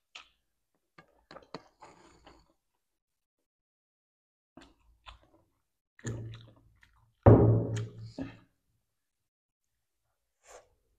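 Close-miked chewing of a mouthful of spicy instant noodles in a few short soft bursts. Between about six and eight seconds in comes a louder low vocal sound from the eater, the loudest thing here, and a faint mouth sound follows near the end.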